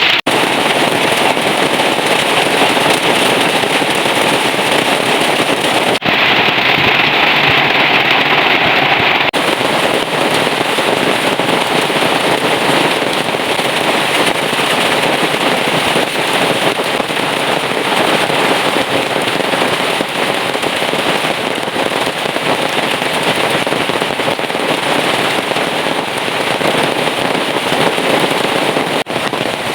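Heavy rain pouring down, a loud, dense, steady patter of drops striking surfaces, with abrupt shifts in its character about six and nine seconds in.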